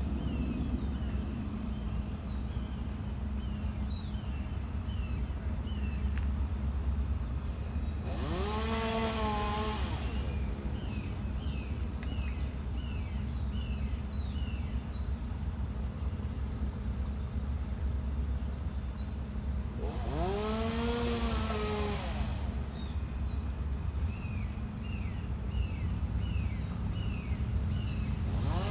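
Outdoor background with a steady low rumble, a bird repeating short falling chirps in phrases of several notes, and three times a rush of noise with a tone that rises and then falls, like a vehicle driving past.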